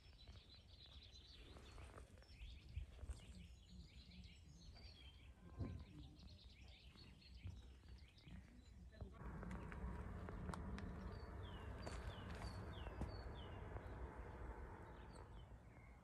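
Faint garden birdsong: scattered short chirps and quick falling whistles over a low rumble. From about nine seconds in, a steady background hum joins it.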